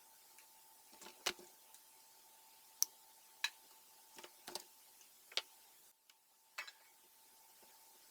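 Scattered sharp clicks and light taps of small tools and parts being handled during a repair, about eight in all, the loudest about a second in, over a faint steady hum.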